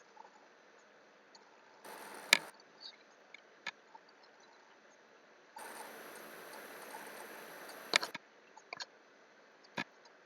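A few sharp, isolated clicks, like computer mouse clicks or key taps, with two stretches of soft hiss: a short one about two seconds in and a longer one from just past halfway to about eight seconds.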